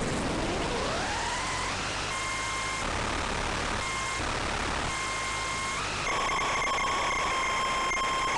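A tone over a steady hiss. It glides up over the first two seconds, breaks into a few short beeps, then holds steady and a little louder near the end.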